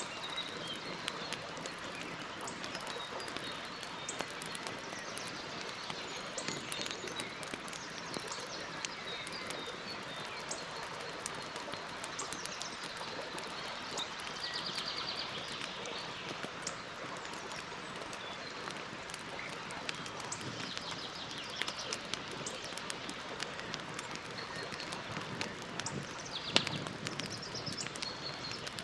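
Campfire crackling with frequent small sharp pops and one louder pop near the end. Birds chirp in the background, including a rapid trill around the middle.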